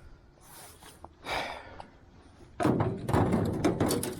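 A brief rustle, then about two and a half seconds in a rapid run of clattering knocks and thumps as fishing gear is handled in the boat.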